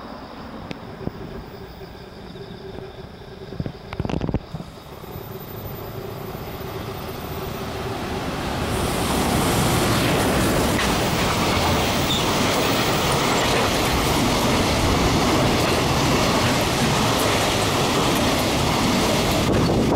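EF210 electric locomotive hauling a container freight train: quieter as it approaches, then loud from about eight seconds in as it passes close and its wagons roll steadily past on the rails. A short knock about four seconds in.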